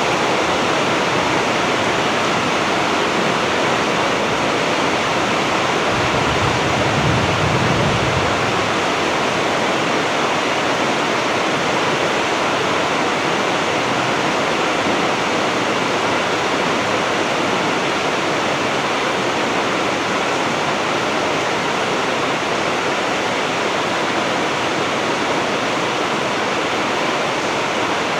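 Heavy rain falling in a steady, loud downpour. A low rumble swells briefly about six to eight seconds in.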